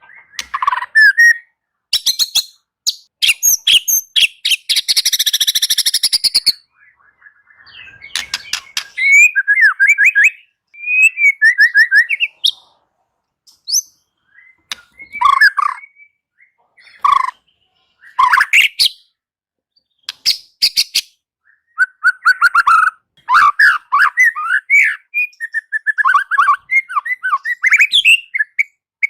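White-rumped shama (murai batu) singing a varied song: whistled, sliding phrases alternating with rapid clicking rattles and a harsh buzzy stretch a few seconds in, delivered in bursts with short pauses between.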